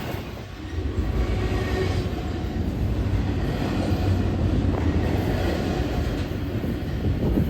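Freight train rolling past, a steady low rumble of cars on the rails.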